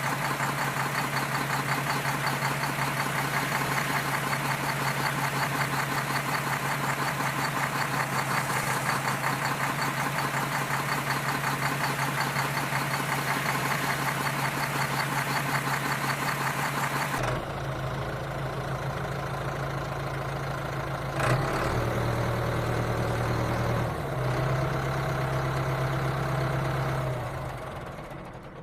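An engine running steadily with a fast, even chug. About two-thirds of the way through, the sound changes to a lower, smoother hum, and it fades out at the very end.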